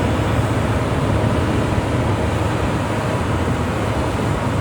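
Mount Washington Cog Railway train heard from a seat on board: a loud, steady rumble and clatter.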